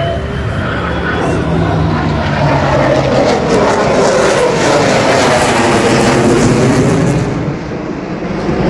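Airplane flying past loud, its engine noise swelling to a peak in the middle and dropping in pitch as it passes, then easing off near the end.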